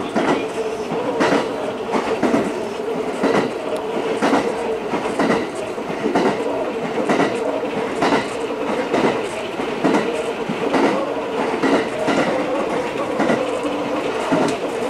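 Electric local train running along the line, heard from inside the front car: wheels clicking over rail joints roughly once a second, often in pairs, over a steady hum.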